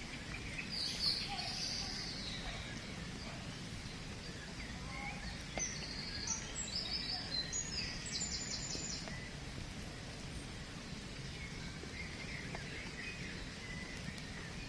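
Birds calling over a steady low outdoor background rumble, with a quick run of short, high repeated notes about halfway through.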